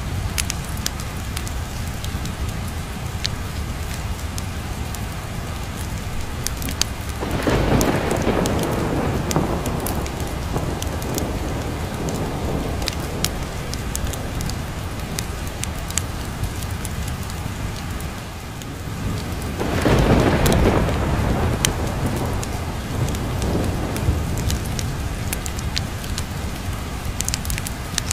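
Steady rain with scattered sharp ticks, and two rolls of thunder, one about seven seconds in and one about twenty seconds in, each swelling and fading over a few seconds.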